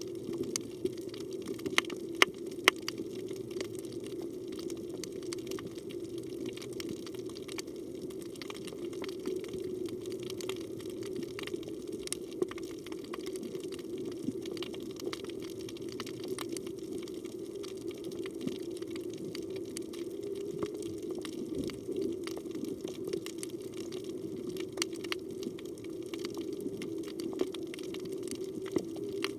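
Underwater reef ambience heard through a phone's housing: a steady low rushing with many scattered sharp clicks and crackles, a few louder clicks about two seconds in.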